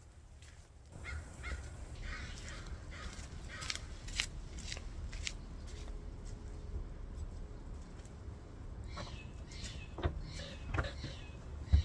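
Birds calling in repeated short cries over a low steady rumble of outdoor background. Scattered knocks are mixed in, with a sharp knock near the end.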